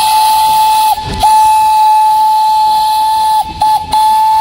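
Steam train whistle blowing long, steady blasts at one pitch over a hiss. There is a short break about a second in and a brief toot near the end between the long blasts.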